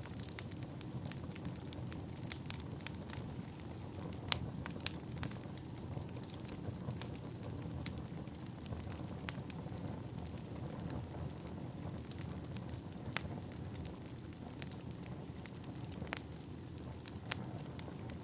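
Wood fire burning: a steady low rumble with irregular sharp crackles and pops, the loudest pop a little over four seconds in.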